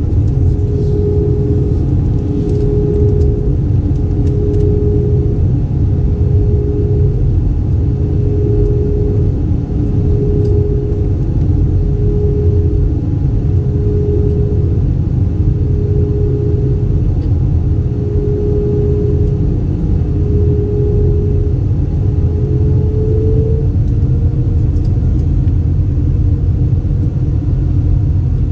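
Steady low rumble of an Airbus A320 heard from inside the cabin, with a tone that pulses about every two seconds, rises slightly near the end and then fades out.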